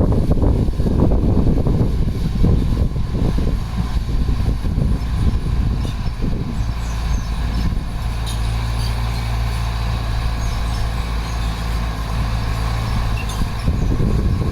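Heavy diesel engine of earthmoving equipment running, uneven at first and settling into a steady low drone about halfway through.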